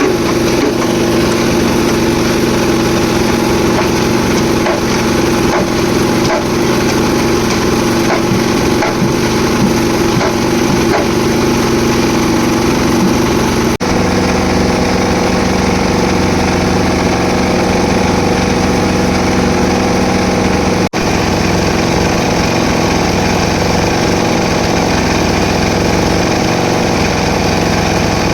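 Concrete mixer's engine running steadily and loudly as the machine works, with a shift in its tone about halfway through.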